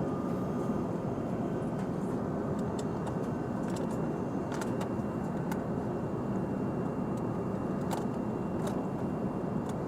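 Steady cabin noise inside an Airbus A350-900 airliner, an even, low rushing sound, with a few faint clicks scattered through it.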